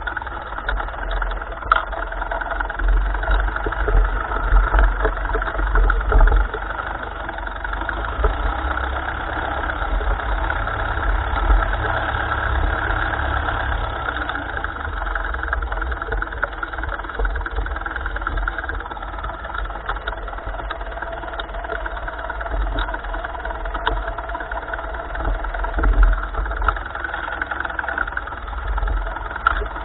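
1955 Ferguson tractor engine running steadily, heard through a camera mounted on the tractor's steering arm.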